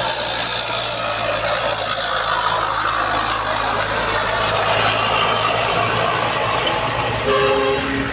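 Hino truck's diesel engine running steadily, with a brief higher-pitched tone about seven seconds in.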